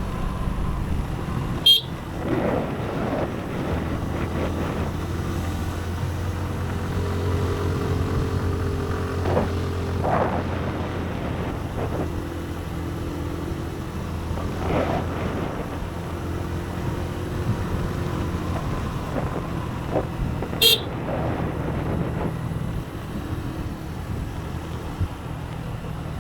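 Motorcycle engine running steadily while riding, its pitch shifting as the speed changes, with a road and wind hiss underneath. Two brief sharp sounds stand out, one about two seconds in and one near twenty seconds in.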